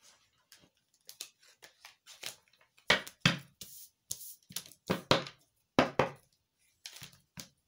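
Tarot cards being handled: a string of sharp flicks and slaps as cards are pulled from the deck and laid down, busier and louder in the second half.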